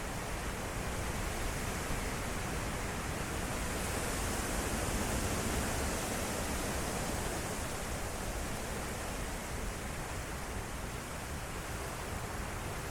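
Strong derecho wind gusts making a steady rushing roar, which swells into a stronger, hissier gust about four seconds in and eases off again a few seconds later.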